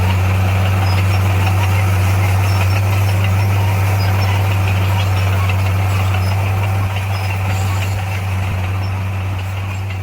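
Diesel engine of a piece of heavy road-building machinery running steadily with a deep, even hum. It gets gradually quieter over the last few seconds.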